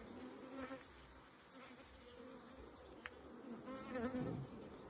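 A honeybee colony buzzing around an opened hive, a faint, steady hum. There is one small click about three seconds in.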